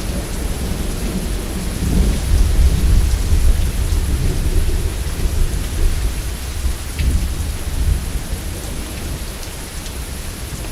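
Steady heavy rain with rolling thunder: a low rumble that swells about two to four seconds in and then eases under the constant hiss of the rain.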